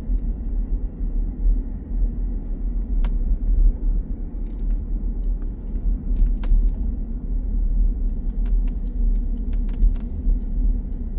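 Steady low road rumble inside a moving car, with a few faint clicks scattered through it.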